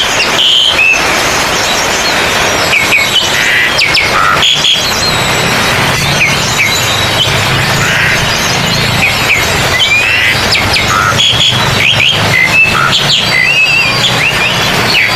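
Several oriental magpie-robins (kacer) singing at once, as in a songbird contest: overlapping loud whistles and quick rising and falling chirps over a steady, dense din.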